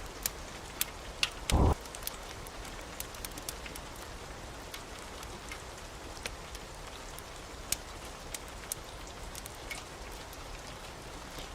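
Steady rain falling, with scattered sharp ticks and one brief, loud low thump about one and a half seconds in.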